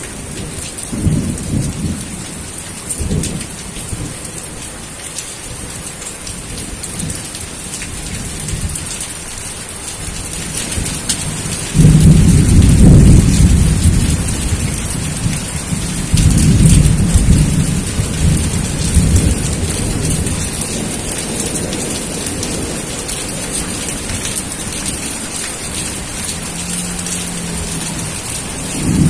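Steady rain hissing, with rolls of thunder. Short low rumbles come early on; a loud clap about twelve seconds in and another about four seconds later each rumble away over several seconds.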